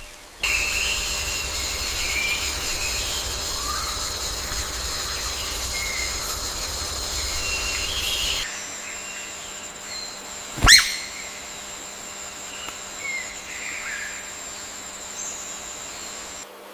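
Natural outdoor ambience with scattered bird calls over a steady high whine and a low rumble. About halfway through the sound cuts to a quieter bed, where one loud, sharp, falling call stands out about eleven seconds in, followed by a few faint chirps.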